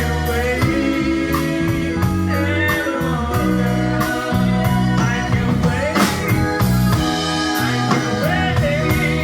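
Live rock band playing a blues-rock song, with electric guitar, bass, drums and a singing voice.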